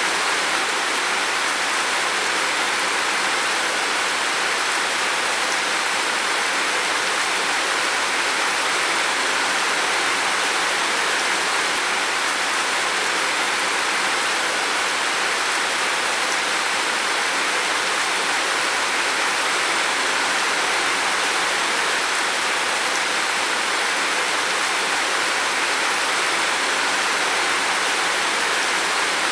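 Heavy rain falling on a roof: a dense, steady hiss of water with no separate drops standing out.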